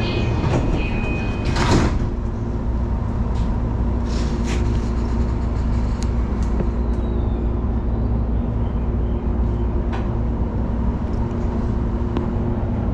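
Electric commuter train doors sliding shut with a loud thump about two seconds in. The train's steady low running hum with faint tones follows, heard inside the carriage.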